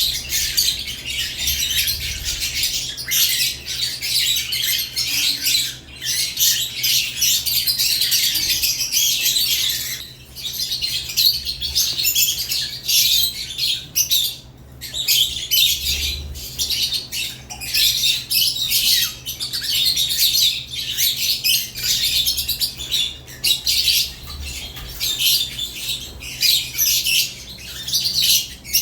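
Caged lovebirds chirping, many shrill overlapping calls without pause apart from two brief lulls, about a third and half of the way in.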